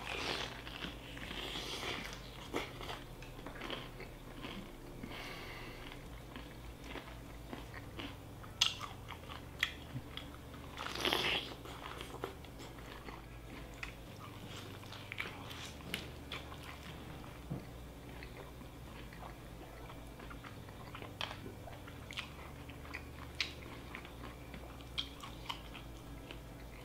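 Close-up crunchy bites and chewing of battered fried chicken dipped in thick white sauce, with scattered crackles; the loudest crunch comes about eleven seconds in. A faint steady low hum lies underneath.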